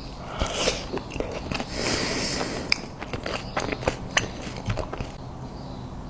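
A person biting into and chewing crunchy food close to the microphone, with a string of sharp crunches and a denser crunching stretch about two seconds in.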